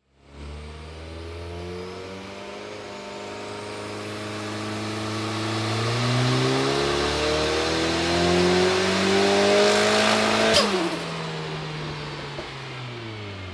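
Turbocharged Nissan FJ20 four-cylinder in a Datsun 1600 on a roller chassis dyno, doing a power run: the engine note climbs steadily for about ten seconds, then a sharp crack comes as the revs drop and wind down.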